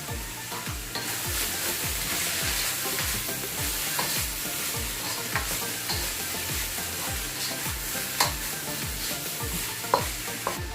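Vegetable stir-fry sizzling in hot oil in a pan while being stirred, the utensil clicking sharply against the pan a few times.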